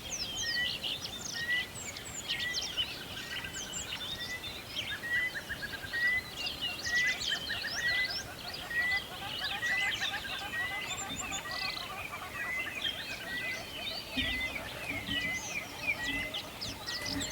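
Many birds chirping and singing at once, with one short note repeated at an even pace, about three times every two seconds, under the busier chirps.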